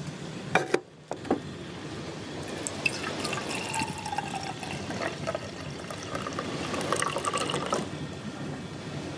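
Liquid being poured into a cup or vessel, splashing and gurgling for about five seconds, after a few sharp clicks about half a second in.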